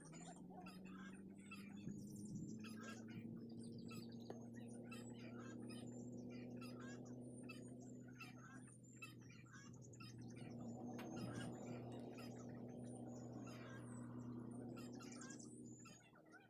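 Birds chirping rapidly and repeatedly, faint, over a steady low hum.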